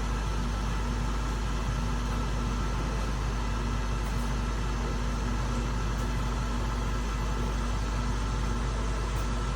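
Ninja Foodi XL Pro Air Oven running, its convection fan giving a steady, even hum over a deep low rumble.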